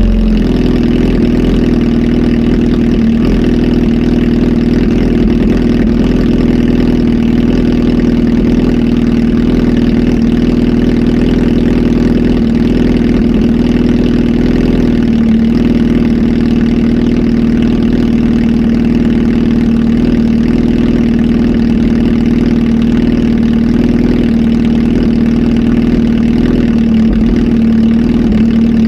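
Kawasaki Z H2 SE's supercharged inline-four idling steadily through a full aftermarket exhaust system, on a flash tune.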